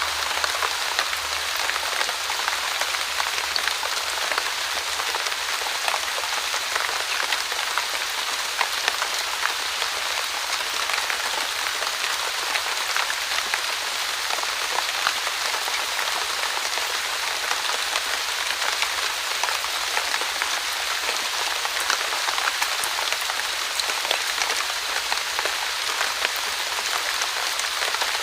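Fine drizzle falling steadily: an even hiss of rain with many small drop taps scattered through it.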